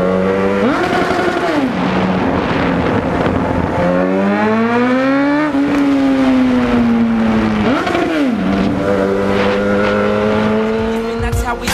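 Honda CB1000R inline-four motorcycle engine running under way. It holds a steady pitch, is revved quickly up and back down twice (about a second in and again near 8 s), and in between climbs steadily in revs for a second and a half before easing off.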